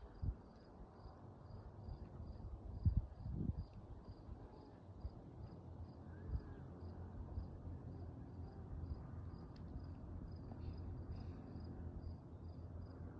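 Insect chirping steadily, high and evenly repeated about twice a second, over a low outdoor rumble, with a few dull thumps about three seconds in.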